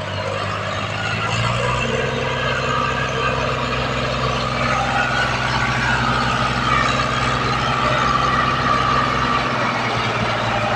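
Diesel tractor engine running, picking up revs about a second and a half in, then running steadily.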